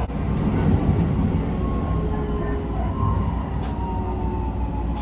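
Keisei 3000 series train running, heard from inside the passenger car: a steady rumble of wheels on rail, with a faint whine that slowly falls in pitch.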